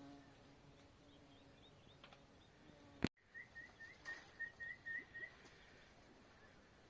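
A small bird calling outdoors: a faint run of short, quickly repeated rising notes, then a sharp click about three seconds in, followed by a louder run of about seven short rising notes.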